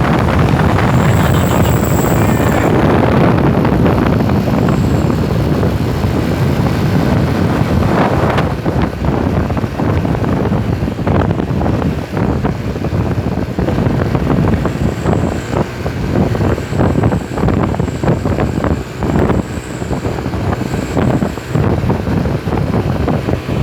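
Truck on the move: engine and road noise with rattling knocks and wind buffeting the microphone.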